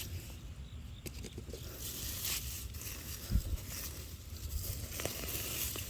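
Rustling and scraping of straw and soil as hands dig through a straw bale for sweet potatoes, with one dull thump a little past halfway.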